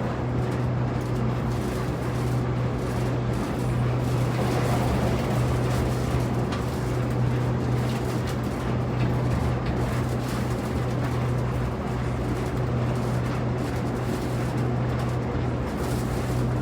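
Airport people-mover tram running, heard from inside the car: a steady low hum over a constant rumble.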